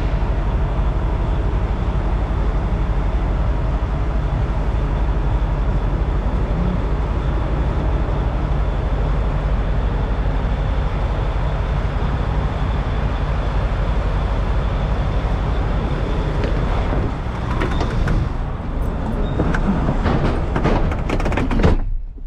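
Semi-truck diesel engine running with a steady, heavy low rumble. In the last few seconds there is a scatter of clicks and rubbing sounds, and the rumble dips sharply at the very end.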